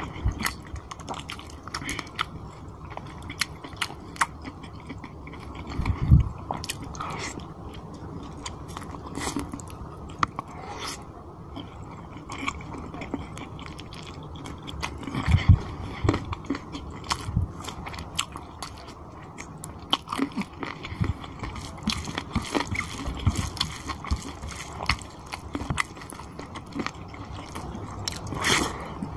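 Close-miked chewing and biting of chicken curry and rice eaten by hand, made of many small irregular clicks, with a couple of louder low thumps about six and fifteen seconds in.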